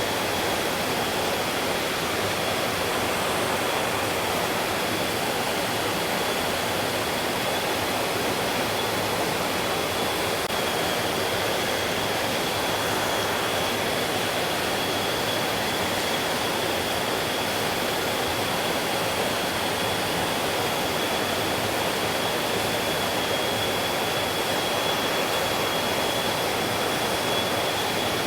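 Mountain stream flowing in a steady, even rush of water with no breaks, and a thin high tone running steadily underneath.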